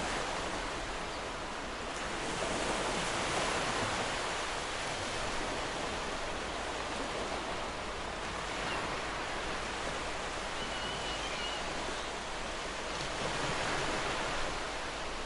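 Ocean surf washing on a beach: a continuous hiss of breaking waves that swells about two seconds in and again near the end.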